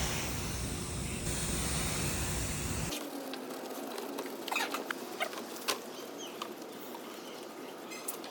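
A steady spraying hiss as a dirt-softening cleaner is sprayed on. About three seconds in it cuts to scattered sharp clicks and short chirps.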